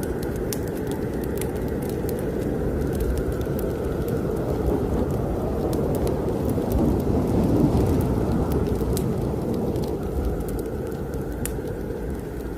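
Strong snowstorm wind blowing in a deep, steady rush that swells to a gust about two thirds of the way through and then eases, with the sharp scattered pops and crackles of a wood fire burning in a fireplace over it.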